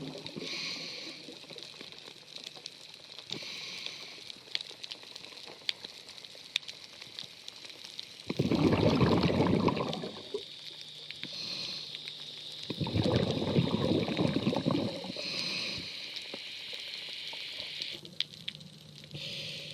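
Scuba diver breathing through a regulator underwater: short hissing inhales, and two long gurgling bursts of exhaled bubbles.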